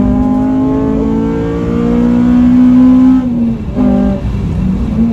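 Honda Civic Type R FN2's K-series four-cylinder engine accelerating hard out of a corner, its pitch rising for about three seconds, then dropping with an upshift, and rising again near the end.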